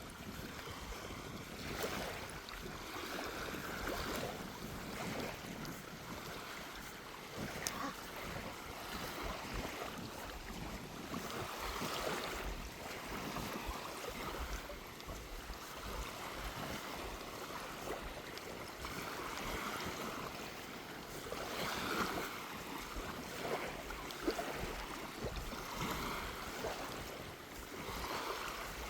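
Small sea waves washing and lapping onto a sandy shore in repeated swells, with wind rumbling on the microphone.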